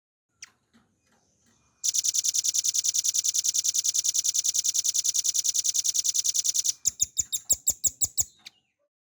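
Velvet-fronted nuthatch singing: a few faint calls, then a long, loud, very fast trill of sharp high notes, about ten a second, lasting some five seconds. It ends in a slower run of about eight sharp notes.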